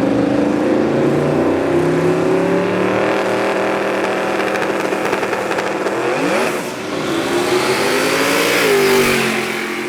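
Drag race car engine at full throttle, its pitch climbing steadily, with a quick dip and climb about six and a half seconds in and the pitch falling away near the end.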